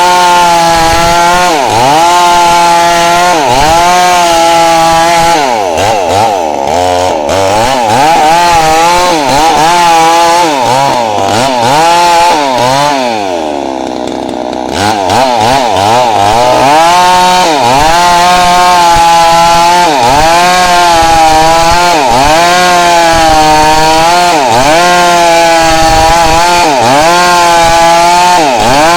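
Small petrol chainsaw ripping lengthwise through timber to cut boards, its engine speed wavering up and down with the load. About halfway through the engine drops briefly to a lower, quieter speed, then picks back up.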